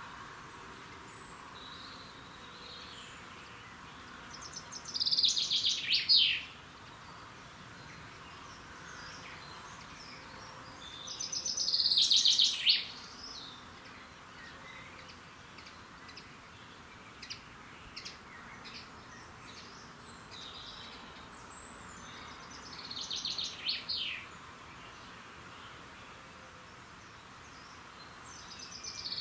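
A songbird sings the same short, fast song phrase four times, about every six seconds; each phrase is a rapid run of notes falling in pitch. Faint short chirps come between the phrases over a steady hiss.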